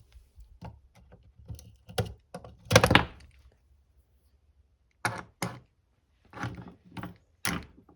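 Clicks and knocks of corroded, stuck batteries being worked loose and pried out of a radio's battery compartment, with one louder, longer scrape about three seconds in and a few sharp knocks in the second half.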